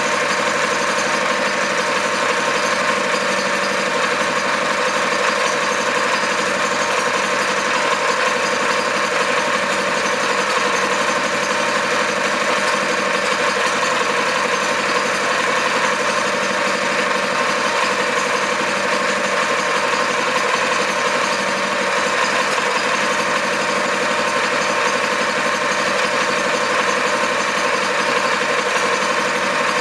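Small Kawasaki FG 200G engine running steadily at an even speed, just after a complete rebuild.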